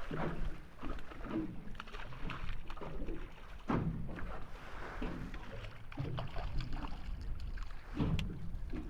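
Scattered knocks and clatter of handling aboard a small fishing boat, over a steady low rumble.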